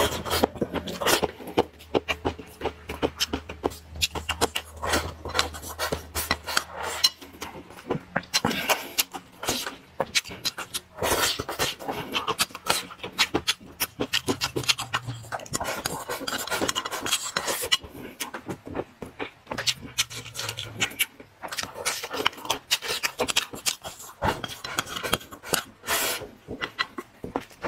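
Close-up chewing and mouth smacking, a dense run of wet clicks and smacks as a man eats a rice bowl with fried tofu and shrimp.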